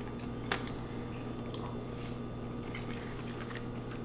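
Faint wet eating sounds from chewing lo mein noodles, with one sharp click about half a second in, over a steady low hum.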